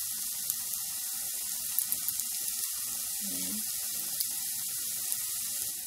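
Ginger slices frying in hot oil in a frying pan: a steady sizzling hiss with scattered small pops.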